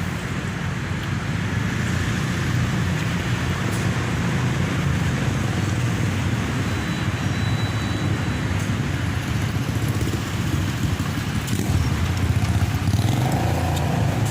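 A steady low engine rumble with a constant background hiss.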